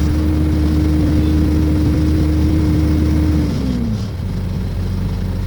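Heavy diesel engine running under steady revs, then dropping in pitch about three and a half seconds in and starting to pick up again near the end.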